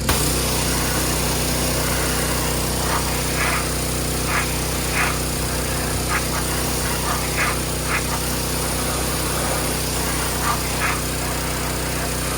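A small engine running steadily, with a string of short high chirps over it.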